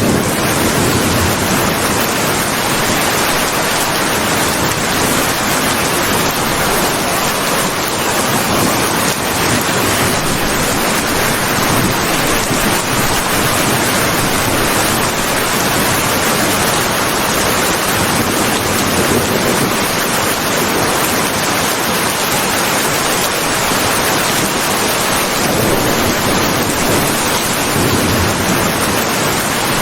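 Steady heavy rain: a dense, even hiss that holds constant throughout.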